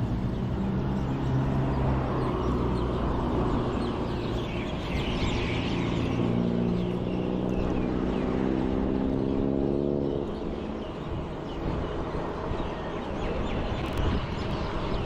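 Road traffic: a nearby motor vehicle's engine hums steadily, rising slightly in pitch before fading out about ten seconds in, over a continuous rush of road and wind noise.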